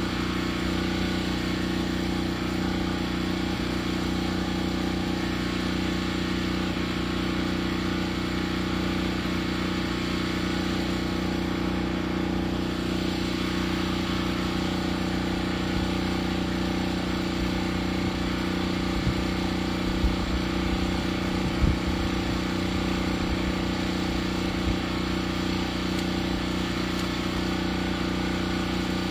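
An engine running at a steady, unchanging speed, with a few light knocks about two-thirds of the way through.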